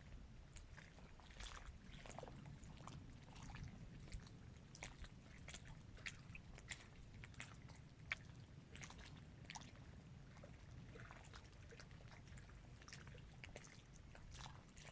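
Small waves lapping at the edge of a dam reservoir: faint, irregular little splashes and clicks over a low, steady rumble.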